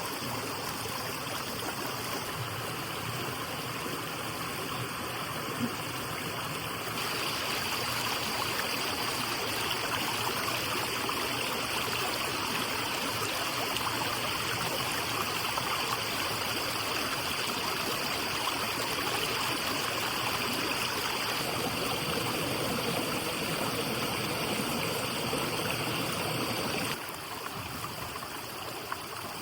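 Stream water running steadily. It gets louder about seven seconds in and drops back near the end, with a thin steady high tone over it through the louder stretch.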